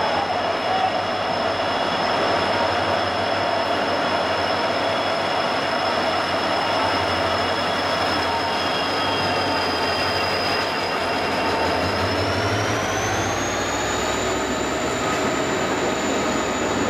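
Express train running through a station at speed without stopping: steady rumble and rattle of the locomotive and coaches passing close by. Several high, steady whining tones run over it and rise in pitch about three-quarters of the way through.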